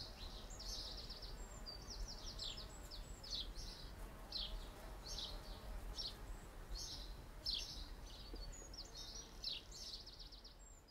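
Small birds chirping in quick, short, repeated notes, several overlapping, over a low steady background rumble.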